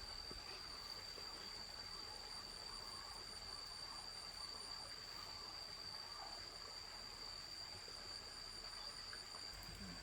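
Insects trilling in the countryside: one steady high-pitched drone that never breaks, with a fainter pulsing chirp higher up for a couple of seconds in the middle.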